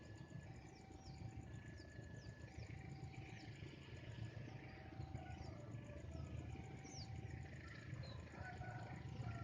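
Faint outdoor ambience: small birds chirping over a steady low distant rumble, with a short call repeating evenly every couple of seconds.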